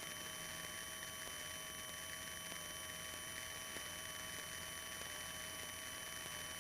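Faint steady hiss with a low electrical hum and thin steady whine tones from a light aircraft's intercom audio line; no engine sound is clearly heard.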